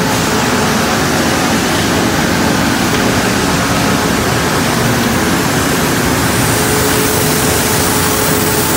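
Sawmill machinery running: a loud, steady wash of noise from the saws and mill equipment, with a faint steady hum coming in about three-quarters of the way through.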